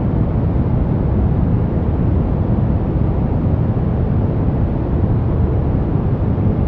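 Steady, deep rumbling noise, like brown noise, even and unbroken, with no separate strikes or crackles.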